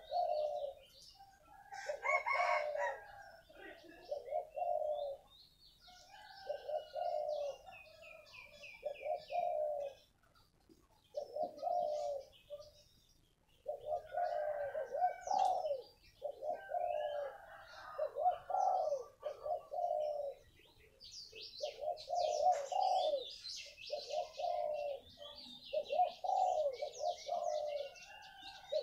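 Spotted dove cooing over and over in phrases of a few coos with short gaps between them. Smaller birds chirp and twitter higher up, busiest near the end.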